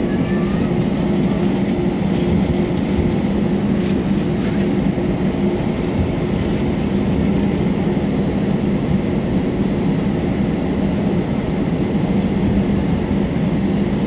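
Airbus A320 jet engines and cabin air running steadily, heard from inside the passenger cabin: a loud even rush with a constant low hum and a faint high whine, holding pitch throughout.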